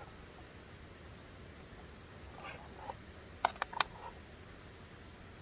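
Light clicks and taps of picnic tableware being handled: a few soft ones about two and a half seconds in, then a quick cluster of sharp clicks about a second later.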